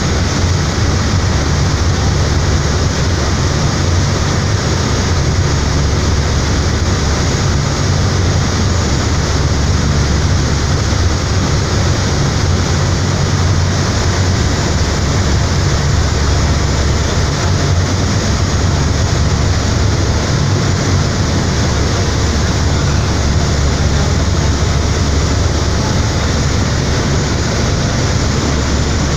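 Fast passenger ferry's engines running steadily at cruising speed: a loud, constant low drone under an even rush of noise.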